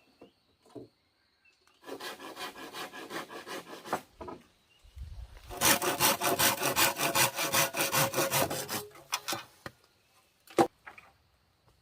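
Wood being sawn by hand in two bouts of quick, even strokes, the second longer and louder, then a single sharp knock near the end.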